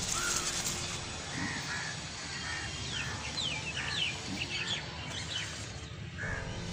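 Birds calling outdoors: a series of short calls, and about three seconds in, a cluster of quick sharp chirps.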